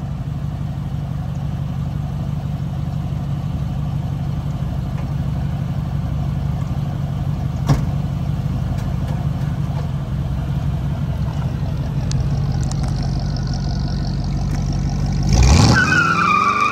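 Ramjet 350 small-block V8 in a 1933 Ford Victoria hot rod idling steadily, with a single sharp knock about halfway through. Near the end the engine revs up and the car pulls away.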